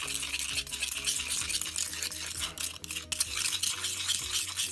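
Thick, gloopy watercolour paste of ground pigment and gum arabic being stirred and scraped around a stone mortar. It makes a continuous gritty scraping with many small ticks.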